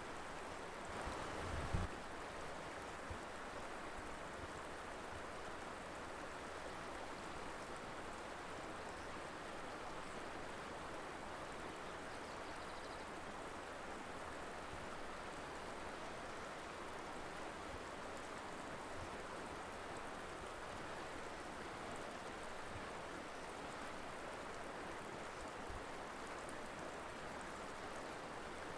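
River flowing, a steady rushing of water. A brief low thump about two seconds in.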